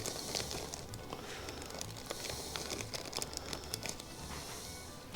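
Light clicks and crinkling of small engine parts and their packaging being handled, over quiet background music with a low bass line.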